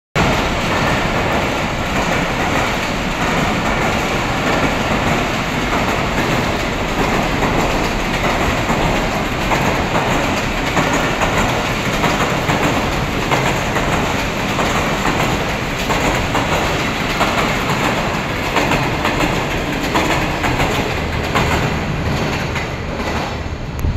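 Express passenger train passing close at speed, its coaches rolling by in a loud, steady rush with the wheels clattering rhythmically over the rail joints.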